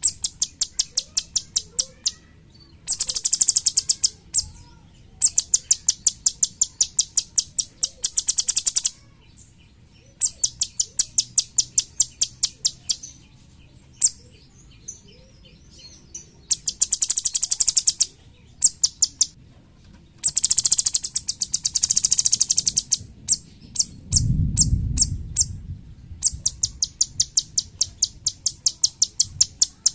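Streak-eared bulbul (cucak cungkok) singing: runs of sharp, high chirps a few per second alternate with fast rattling trills that last one to two seconds, separated by short pauses. A brief low rumble comes about two-thirds of the way through.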